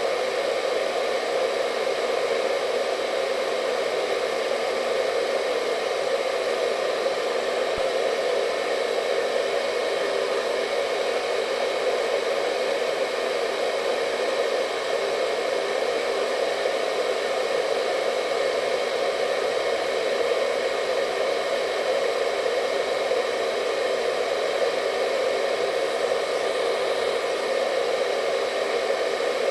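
Hair dryer running steadily, a constant airy hum with a faint whine.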